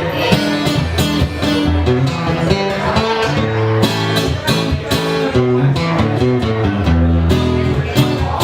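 A live band playing an instrumental passage on guitars with bass, chords over a moving bass line and no singing.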